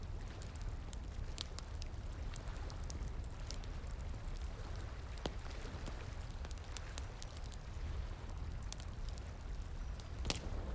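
Wood fire crackling, with frequent sharp pops and snaps and one louder crack near the end, over the steady rush of flowing water.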